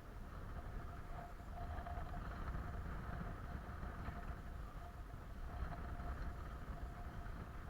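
Wind rumbling on the microphone, with a faint steady hum that comes and goes.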